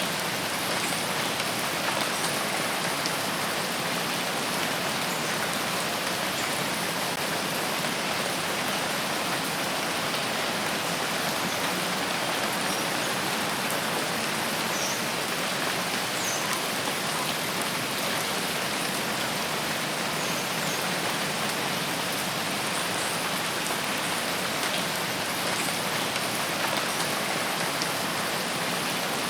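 Steady rain falling in a rain forest, a continuous even hiss of drops with no letup.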